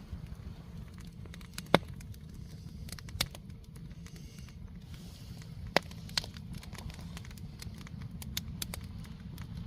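Firewood burning in a campfire, crackling with scattered sharp pops over a steady low rumble; the two loudest pops come about two seconds and six seconds in.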